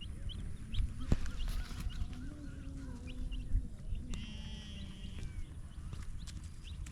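Birds chirping again and again alongside the calls of farm animals, one long call from about two to three and a half seconds and a high call about four seconds in. A low rumbling noise runs underneath.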